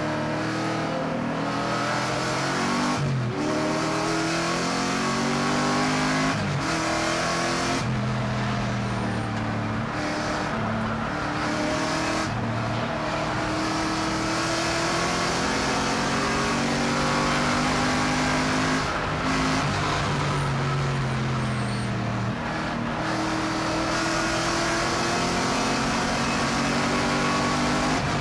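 Porsche 928 race car's V8 engine at racing pace, heard from inside the cockpit. The pitch climbs and falls over and over as the car accelerates and slows for corners, with several short breaks where the note dips and drops in pitch.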